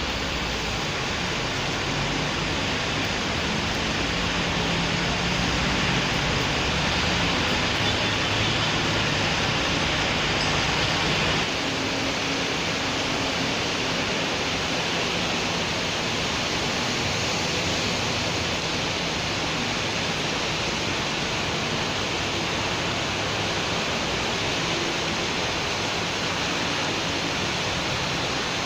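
Steady rain falling on a city street, an even rushing hiss. In the first part, a louder rush of traffic on the wet road, with a low engine hum underneath, swells and then cuts off abruptly about eleven seconds in.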